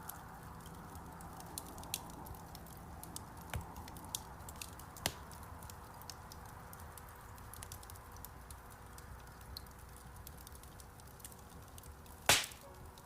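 Wood fire crackling in a fireplace: a soft steady hiss with scattered small pops and ticks, and one louder crack near the end.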